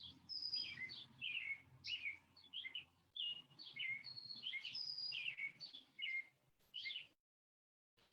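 A songbird sings outdoors: a quick run of short chirps, many sliding down in pitch. The song cuts off abruptly about seven seconds in.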